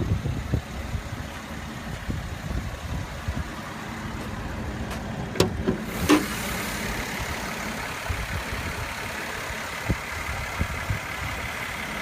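Mercedes-Benz GLE 350's 3.5-litre V6 idling steadily, with a couple of sharp clicks about halfway through, after which the engine sound turns brighter.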